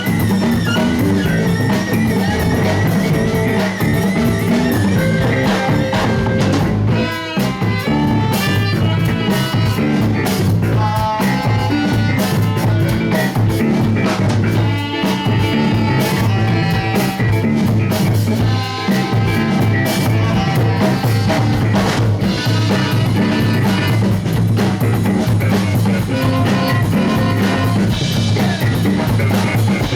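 A live rock band playing a song, with electric guitar and drum kit over a steady bass line. The music dips briefly about seven seconds in.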